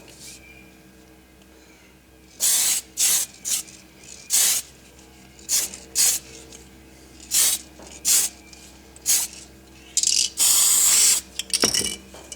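Spray paint hissing in short bursts: about a dozen quick puffs of a quarter to half a second each, with one longer burst of about a second near the end.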